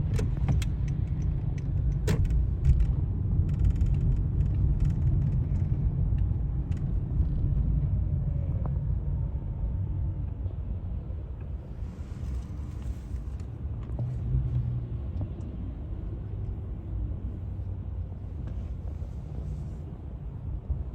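Road traffic: a steady low rumble of passing cars, with a few sharp clicks in the first three seconds and faint wavering tones in the middle, fading somewhat toward the end.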